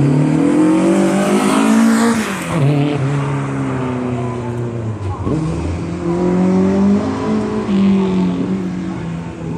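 Racing truck engine running hard on a track. Its pitch climbs and then drops sharply about two seconds in, and rises and falls again from about six to eight seconds in.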